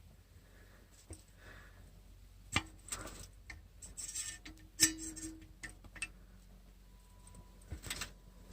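Faint, irregular metallic clicks and clinks of hand tools working a spark plug in the engine bay, with a few light knocks and scrapes.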